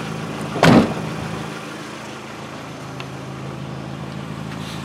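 1998 Chevrolet Tracker's 1.6-litre four-cylinder engine idling steadily, with a door slammed shut less than a second in as the loudest sound.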